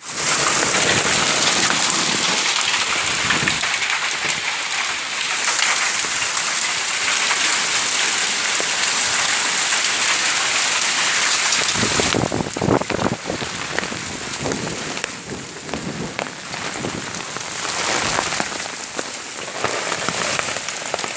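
Heavy rain falling in a steady, loud hiss. About twelve seconds in, the sound shifts to less hiss and more uneven splashing and dripping.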